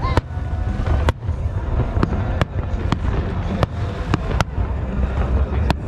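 Aerial fireworks display going off: a string of sharp bangs and cracks at irregular intervals, about nine in six seconds, over a steady deep rumble.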